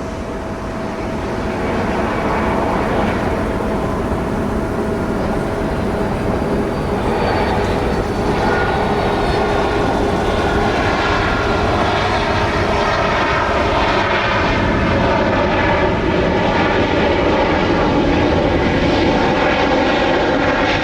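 Jet airliner's engines running loud and close. A dense rush builds over the first couple of seconds and then holds steady, and from about a third of the way in several high whining tones ride above it.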